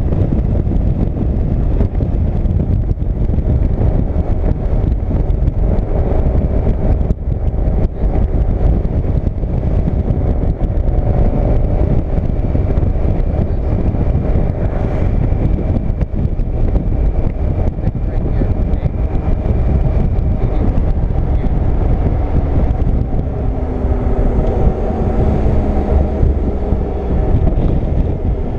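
Motorcycle riding at road speed: a steady low rush of wind and road noise with the engine's hum underneath. Near the end a tone slides down in pitch for a few seconds.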